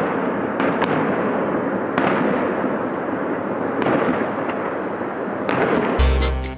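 Fireworks display: dense, continuous crackling with many sharp pops and bangs. Music comes in near the end.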